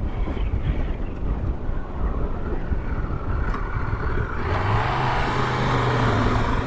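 Triumph Tiger 1200 GT Explorer's inline three-cylinder engine running on the move over a low rumble of wind and road. About four and a half seconds in, the engine note comes up into a steady hum and holds.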